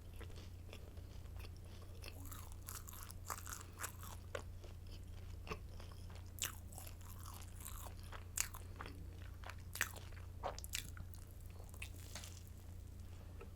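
Close-miked chewing of hard, crunchy garlic stick baguette: repeated sharp, crackly crunches that thin out near the end.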